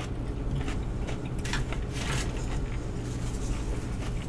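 A person chewing a mouthful of raw cucumber with the mouth closed: a few faint crunches and wet mouth clicks over a steady low hum.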